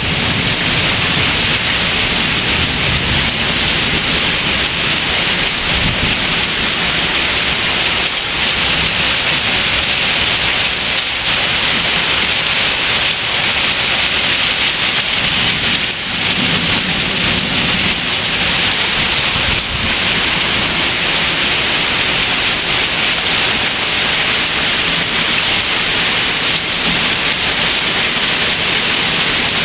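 Heavy rain pouring down in a steady, dense hiss: a strong downpour. Low rumbling rises under the rain near the start and again about halfway through.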